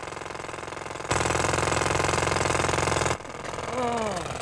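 An engine-like mechanical noise runs steadily. About a second in it grows much louder, and it cuts off suddenly about two seconds later. Near the end comes a short, falling-pitched vocal sound.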